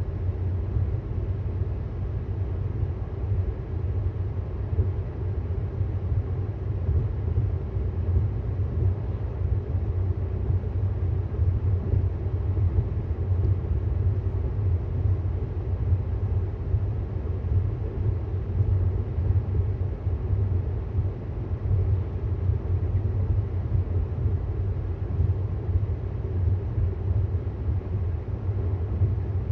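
Steady road and tyre rumble inside the cabin of a moving 2018 Tesla Model S 75D. It is an electric car, so no engine note is heard, only an even low rumble with a fainter hiss above it.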